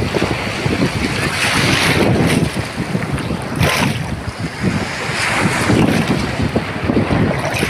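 Sea waves breaking and washing up the beach, with two surges of surf hiss, one about two seconds in and one past the middle, and strong wind buffeting the microphone throughout.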